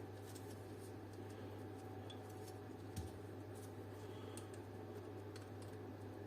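Faint, scattered small clicks of plastic and brass parts being handled while a car dome light is put back together, with one soft knock about three seconds in, over a steady low hum.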